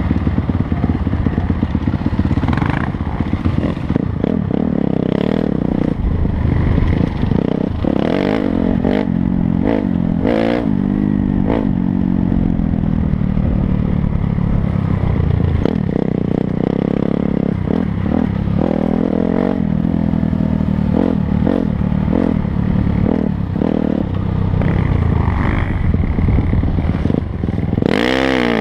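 Dirt bike engine revving up and down through the gears as it is ridden, with a sharp rev near the end. Clattering knocks from the bike running over rough ground come through the whole time.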